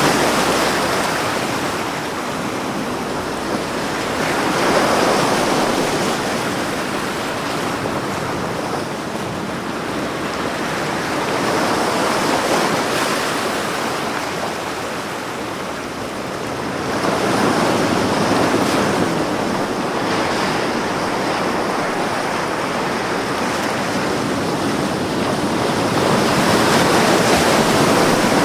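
Ocean waves breaking and washing up on a beach, a continuous surf rush that swells and ebbs every several seconds, with louder surges about five, twelve, eighteen and twenty-seven seconds in.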